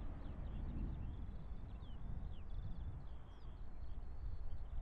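Small birds chirping and twittering in quick, short rising and falling notes, over a steady low rumble.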